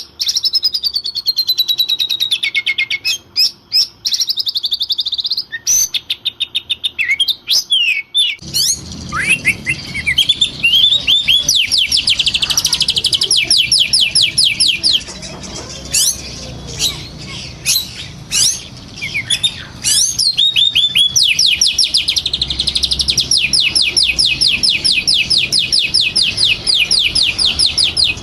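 Oriental magpie-robin (kacer) singing in agitated, fighting form: rapid sweeping notes and long fast trills of repeated high notes. A steady background noise comes in about eight seconds in.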